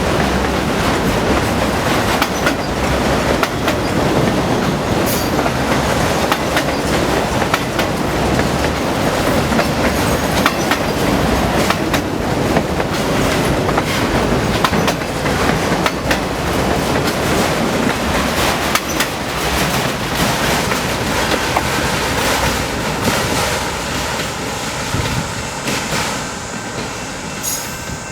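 A train's railcars rolling past, their steel wheels clattering over the rail joints in an irregular run of clicks and knocks. The sound eases off in the last few seconds, where faint squealing tones from the wheels come through.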